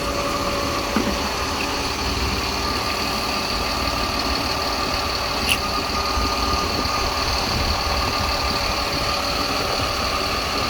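Jet fuel truck running with its PTO engaged and driving the fuel pumps. It gives a steady engine rumble with a steady pump whine over it while fuel recirculates through the single-point hose. A single light click comes about five and a half seconds in.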